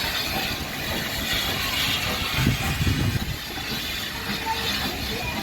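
Heritage railway train running: a steady noise with a louder low surge about two and a half seconds in.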